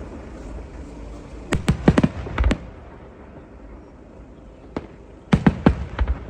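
Fireworks going off in sharp bangs: a quick cluster of five or six about a second and a half in, a lone bang near the middle, then another rapid cluster near the end.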